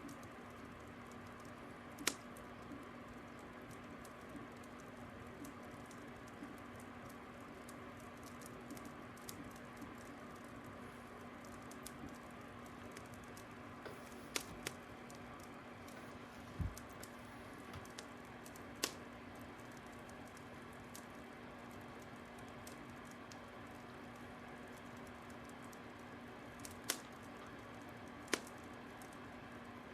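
Fire crackling: a steady faint hiss with a low hum under it, broken by a handful of sharp isolated pops at irregular intervals and one low thump near the middle.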